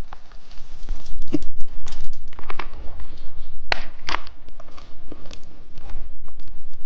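Close-miked candy eating and handling of its plastic packaging: scattered crackles, clicks and crinkles at an uneven pace.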